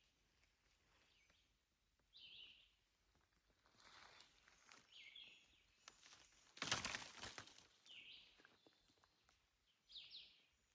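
Faint outdoor quiet broken by a few short, high bird chirps every two or three seconds, and one louder rustling burst about seven seconds in.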